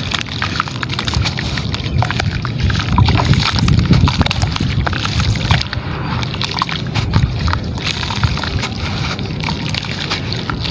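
Gritty, wet material being crumbled in water: a steady run of small crackles and sloshing, a little louder about three seconds in.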